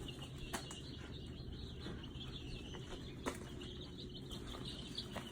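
A crowd of baby chicks and other young poultry peeping continuously, many high chirps overlapping, with three sharp clicks about half a second in, around three seconds in and near the end.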